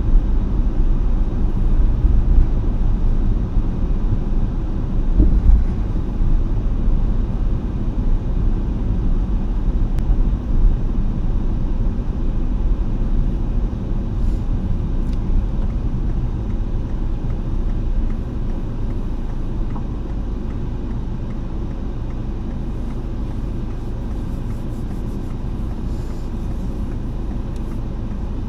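Steady low rumble of a car driving, with road and engine noise; it wavers at first and evens out about two-thirds of the way through.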